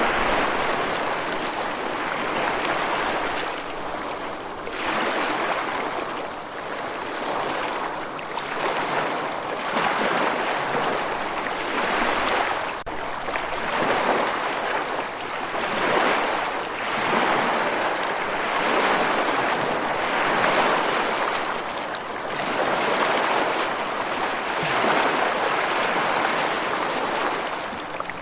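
Rushing water: a steady hiss that swells and eases every two seconds or so.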